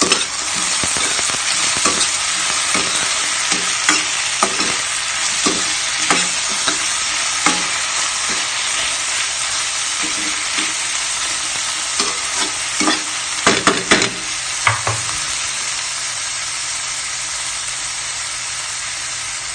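Sliced tomatoes and onions sizzling as they sauté in oil in a metal pan. A metal spoon clicks and scrapes against the pan as they are stirred. The stirring stops about three quarters of the way through, leaving the steady sizzle.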